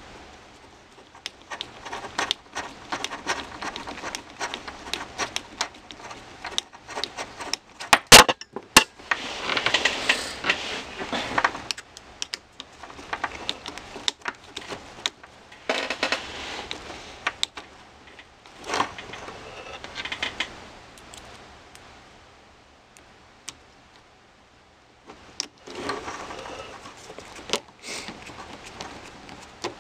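Hard plastic RC truck parts and a metal hex driver clicking, rattling and scraping on a workbench as small screws are fitted and driven in. There is one loud sharp knock about eight seconds in, and a short quiet spell near the end.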